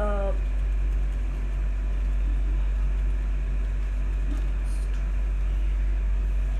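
A steady low rumble or hum runs at an even level, with no strokes or changes.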